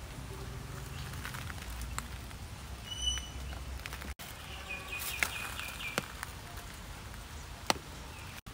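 Outdoor background with a small bird chirping: one short high chirp about three seconds in, then a quick run of chirps about five seconds in. A few faint clicks are heard as well.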